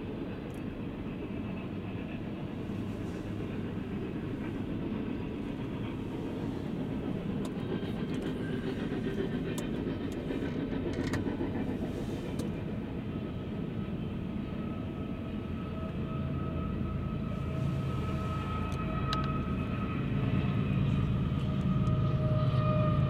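Double-stack intermodal container train rolling past, a steady rumble of wheels on rail with a few sharp clicks partway through. Over the last few seconds it grows louder with a low diesel engine hum as a mid-train locomotive draws near.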